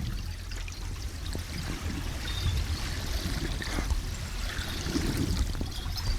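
Harbour waves sloshing, under a heavy low wind rumble, with scattered light clicks and knocks.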